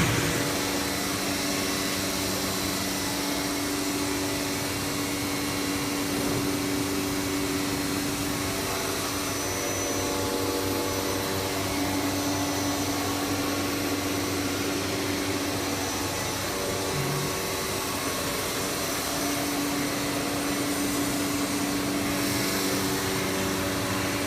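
ATC CNC router running steadily: a continuous rushing machine noise with a steady hum of a few tones under it, typical of the spindle and machine drives at work.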